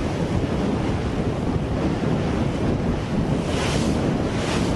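Wind blowing hard on the microphone over the rush of sea waves along a moving boat, with two louder hissing washes of water near the end.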